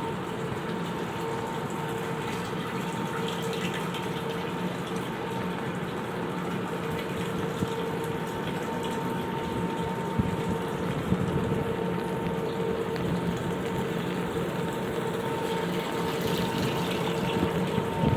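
Steady rush of running water with a constant hum underneath, and a few light taps.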